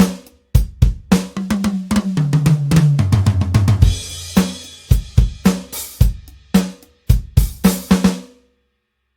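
Toontrack EZdrummer 3 virtual drum kit playing a groove of kick, snare and hi-hat. About two seconds in comes a tom fill that falls in pitch, then a cymbal crash near the four-second mark. The beat picks up again and stops sharply shortly before the end.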